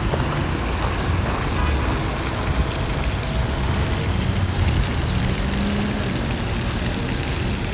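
Steady outdoor background noise: a low rumble of road traffic under an even hiss.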